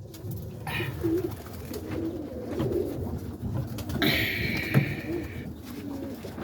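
Domestic pigeons cooing in a loft, low and wavering. A brief louder, higher, hissy sound comes about four seconds in.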